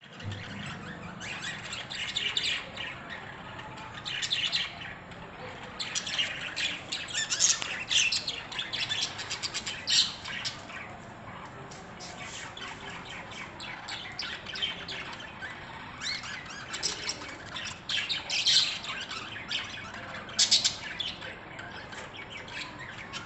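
Several budgerigars chattering: a continuous mix of quick chirps and warbles, with louder squawking clusters every couple of seconds.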